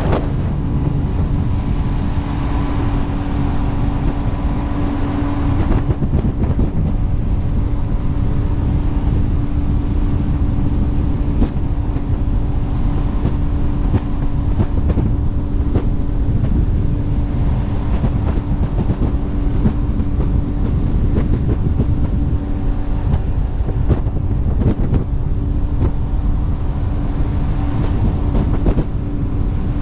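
Jet boat running steadily underway, a loud engine rumble with a constant tone and a lot of rushing and buffeting noise; the hiss eases about six seconds in.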